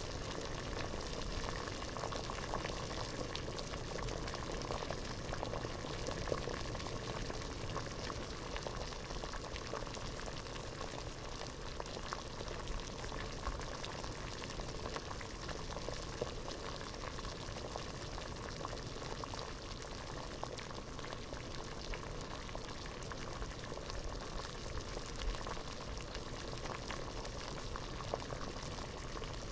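Water boiling in a pot: a steady, dense bubbling with many small pops, even throughout.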